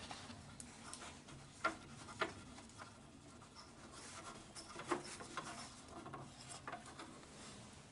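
Faint rubbing and scraping of parts being handled, with a few light clicks and knocks about two seconds in and again near five seconds.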